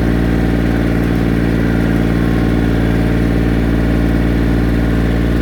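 1994 John Deere 770 compact tractor's three-cylinder diesel running steadily at a constant speed while the tractor drives along in first gear.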